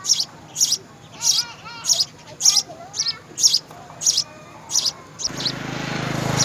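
A small bird chirping over and over in short, high chirps, about two a second, with fainter lower warbling notes beside them. About five seconds in, a rushing noise with a low hum comes in and grows louder.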